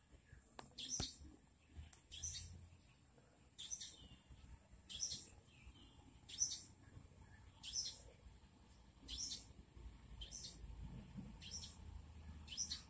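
A bird calling over and over: about ten short, high calls, one every second and a half or so.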